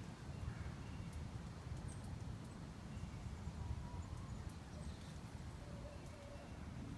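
Outdoor ambience: a steady low rumble with a few faint, short songbird chirps scattered through it.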